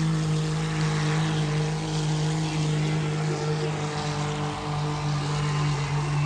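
Diesel engine of a pulling vehicle held at high revs under load while dragging the sled, a steady drone whose pitch sags slightly as the pull goes on.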